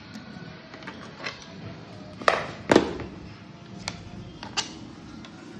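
Irregular knocks and taps of wooden pallet boards being handled, the two loudest close together about halfway through, over a low steady background noise.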